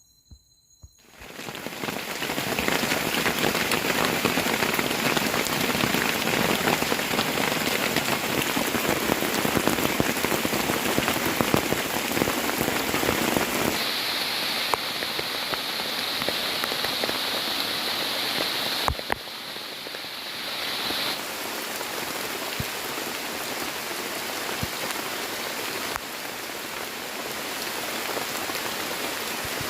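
Heavy rain pouring down, starting abruptly about a second in, with scattered sharp drop hits. A steady high-pitched hum joins partway through for several seconds.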